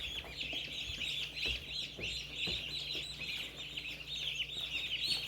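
Many day-old broiler chicks peeping at once in a dense, continuous chorus of short, high, down-sliding peeps, with a few soft knocks among them.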